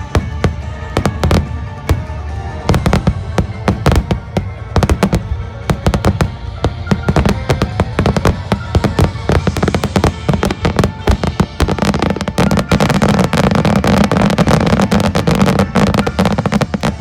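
Aerial fireworks bursting in quick succession over music. The bangs come closer together from about halfway and merge into a dense crackle near the end.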